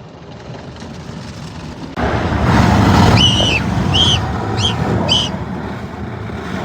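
Car wash heard from inside the car: water spray and wash equipment rushing over the body. The rushing swells suddenly louder about two seconds in, and four short high-pitched squeals sound in the middle.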